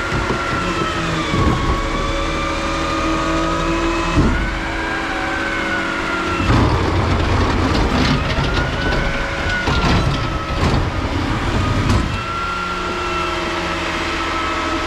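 Garbage truck's engine and hydraulics running, with a high whine that wavers up and down. From about six and a half to twelve seconds in, the engine revs up over a run of clattering and knocking, then it settles back to a steady idle.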